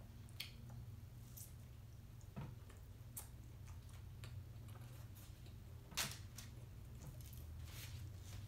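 A person chewing a hot dog with mouth closed: faint, scattered soft clicks and smacks, the sharpest about six seconds in, over a steady low hum.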